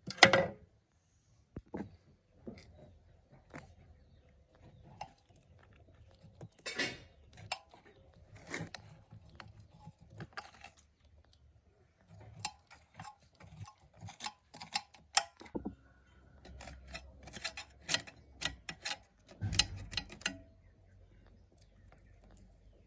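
Metal tools and small engine parts clinking and knocking against each other at irregular intervals, with a sharp clank at the start and busier clusters of clinks in the second half.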